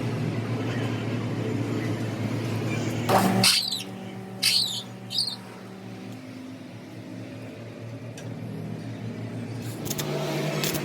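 A motor runs with a steady hum and cuts off about three and a half seconds in. A few short, high, sweeping squeaks follow, then a faint lower hum that rises again near the end.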